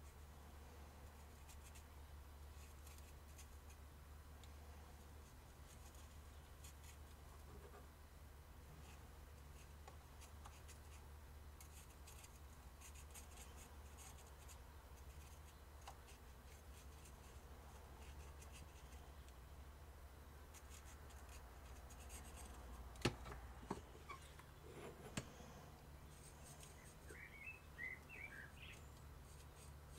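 Near silence over a low steady hum, with faint scratching from a silver paint pen being worked over a small plastic toy motorcycle's gas tank, and a few small clicks a little past the middle.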